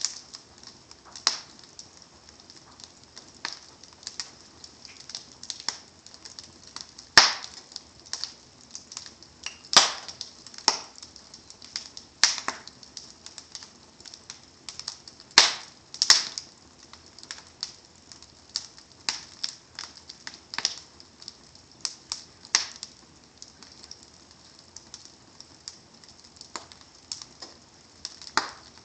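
Wood fire burning in a fireplace: irregular crackling with sharp louder pops every second or two over a faint hiss of burning logs.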